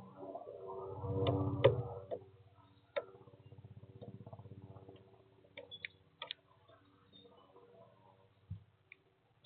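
Woodpecker pecking sunflower seeds at a bird feeder: sharp, irregular taps spaced a second or more apart, over a low hum that swells near the start.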